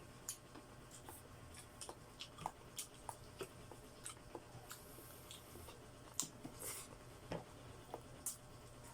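Close-up mouth sounds of someone eating adobo chicken feet: chewing, biting and sucking that give irregular clicks and smacks, a few a second, with the loudest smack about six seconds in.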